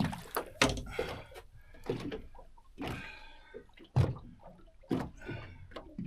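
Irregular knocks and thumps on a boat from a freshly landed fish being handled, about ten of them at uneven spacing, the loudest a heavy thud about four seconds in.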